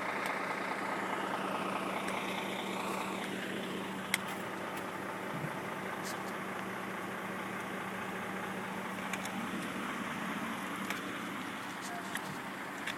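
A motor vehicle engine idling steadily, with a low hum over street noise. A few faint sharp clicks are heard, the clearest about four seconds in.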